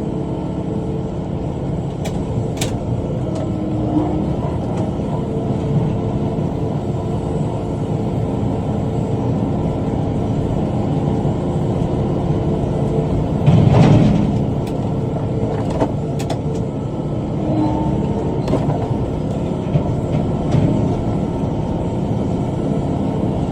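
Tractor engine running steadily under load while pulling a rotary cutter (bush hog) through brush, with a few sharp clicks and one louder thud about halfway through, as from the cutter striking debris.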